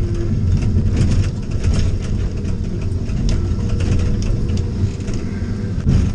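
Motor vehicle running with a steady low engine and road rumble, and scattered knocks and rattles throughout.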